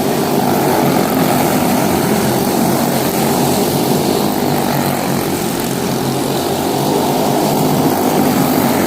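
Quarter midget race cars' Briggs & Stratton Animal single-cylinder engines running together at racing speed, a steady drone.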